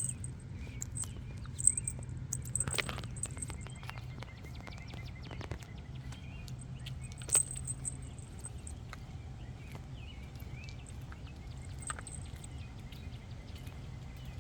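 Outdoor roadside ambience: a steady low hum of traffic, with short high bird chirps and scattered small clicks.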